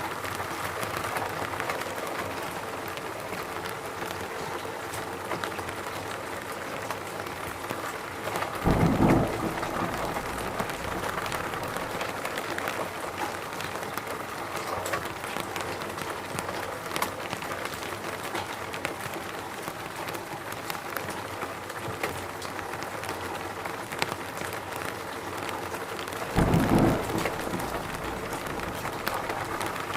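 Steady rain falling in a forest, a continuous hiss dense with small drop patters. Two brief low rumbles rise out of it, about nine seconds in and again near the end.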